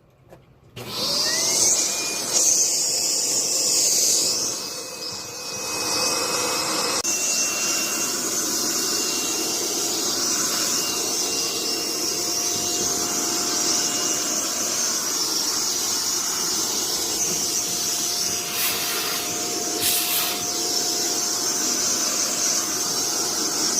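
Hoover upright vacuum cleaner switched on about a second in, its motor whine rising to speed, then running steadily through its hose. The sound dips briefly around five seconds in, and late on there are two short surges of rushing noise.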